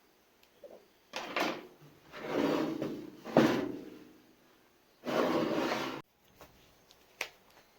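Several short scraping and knocking handling noises, the loudest about three and a half seconds in; one rubbing stretch about five seconds in stops abruptly.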